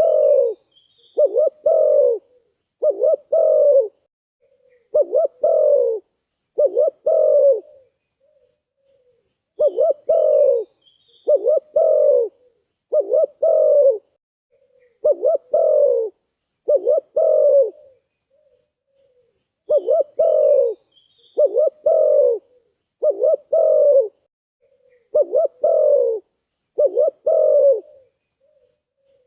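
Spotted dove cooing: about five low coo phrases, each under a second with a stuttering start, then a pause of a couple of seconds. The pattern repeats three times. Faint high chirps from a small bird are heard between the coos.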